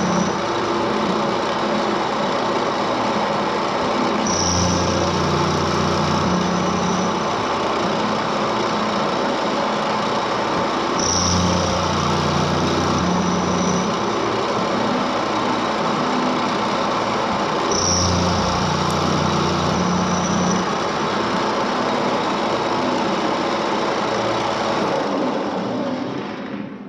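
Homemade CNC mill cutting aluminium with a 6 mm HSS endmill on a 4th-axis rotary table: a steady spindle-and-cutting noise, with a higher tone and deeper hum rising for two to three seconds about every seven seconds as the passes repeat. The sound dies away near the end.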